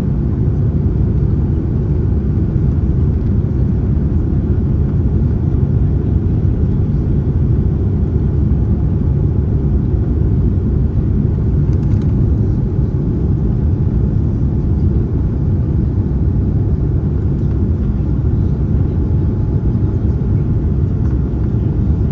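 Steady low rumble of engine and airflow noise inside the cabin of a Boeing 787-9 airliner, holding the same level and pitch throughout. There is one faint click about twelve seconds in.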